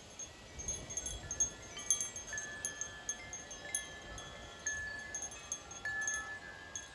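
Wind chimes ringing in gusty wind, struck again and again in quick, irregular bursts, their tones ringing on and overlapping. A low gust of wind rumbles about a second in.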